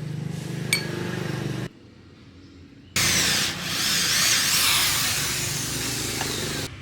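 Workshop power tool running in two stretches: a lower hum for about a second and a half, then, after a short lull, a much louder, harsher run lasting about four seconds that stops abruptly near the end.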